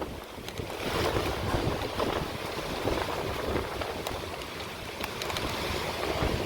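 Hurricane wind gusting and buffeting the microphone: a rushing noise with a heavy low rumble that swells and eases every second or so.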